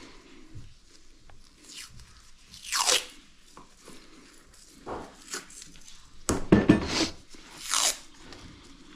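Hand work on dryer parts and seal material: a series of short scraping, rasping strokes, some falling in pitch, with a louder cluster of knocks and scrapes about two-thirds of the way through.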